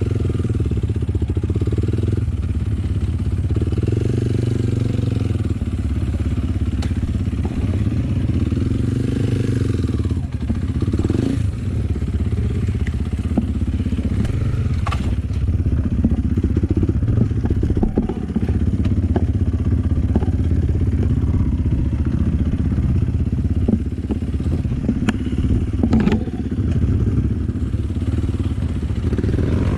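Off-road enduro motorcycle engine running steadily while riding a rough trail, with the pitch shifting a little as the throttle changes, and scattered knocks and clatter from the bike over bumps.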